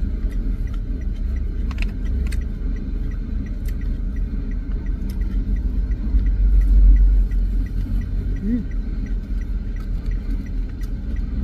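Steady low outdoor rumble that swells about six seconds in, with scattered small clicks and ticks from eating.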